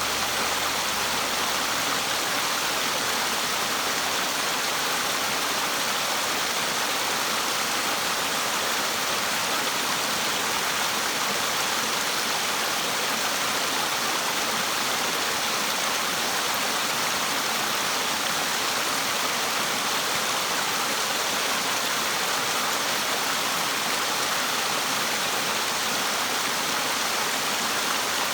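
Waterfall rushing: a steady, even roar of falling water that holds unchanged throughout.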